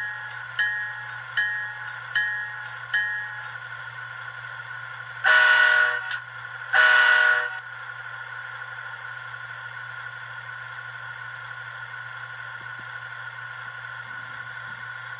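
Digitrax SDN144K0a sound decoder in an N-scale Kato F7, played through a small 16 mm speaker, running its diesel engine sound with a steady drone. The bell rings about once every 0.8 s and stops about 3 s in, then the horn sounds two blasts of about a second each, the loudest part.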